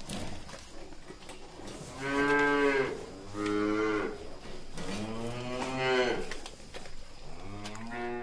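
Cattle mooing: four long, drawn-out moos in a row, starting about two seconds in, each lasting about a second or a little more, the last one running on past the end.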